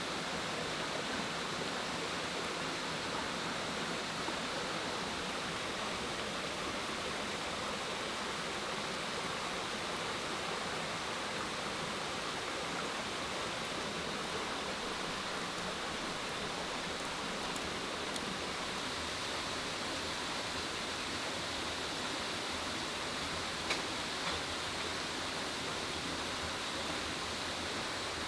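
Steady rushing of water, an even hiss with no change in level, with one light tick near the end.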